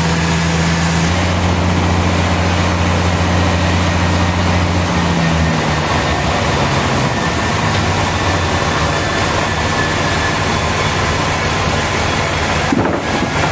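Sawmill machinery running, a loud steady mechanical din with a low hum that dies away about five seconds in while the broad noise carries on.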